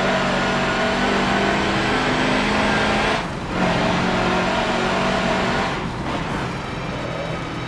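Mercedes-Benz racing truck's diesel engine running hard under load, with a short break in its sound about three seconds in. It drops in level from about six seconds in.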